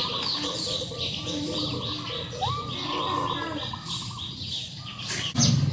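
Small birds chirping: a quick, continuous run of short, high, falling chirps from several birds. A louder, low sound starts just before the end.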